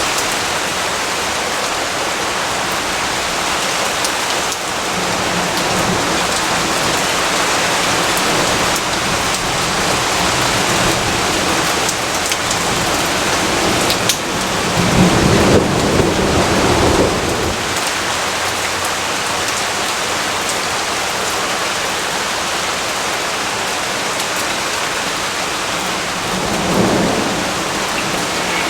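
Steady heavy rainfall, with a low rumble of thunder lasting a few seconds about halfway through and a shorter, fainter rumble near the end.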